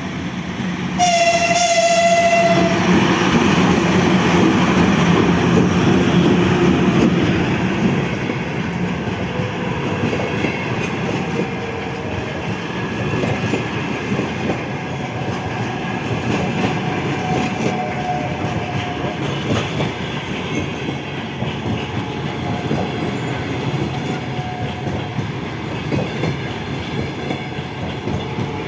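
A train sounds one steady horn blast of about a second and a half, starting about a second in, then runs past with continuous rail noise that is loudest for the first several seconds and eases somewhat after about eight seconds.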